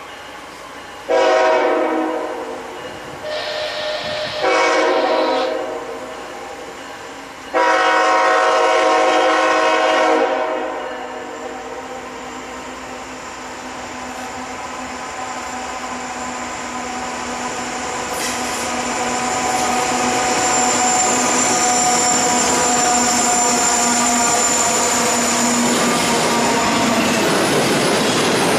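A diesel locomotive's air horn sounds four blasts as the train approaches, the last held about three seconds. The train's rumble then builds steadily as it comes closer and passes, and a thin high whine rises in over it about two-thirds of the way through. Near the end the cars roll by with a rushing clatter of wheels on rail.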